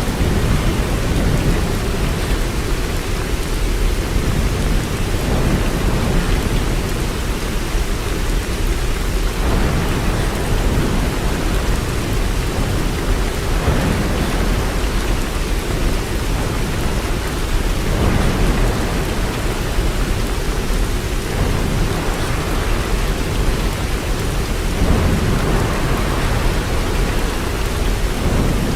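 Steady heavy rainfall: a continuous dense rushing hiss with a strong low rumble that swells and eases every few seconds.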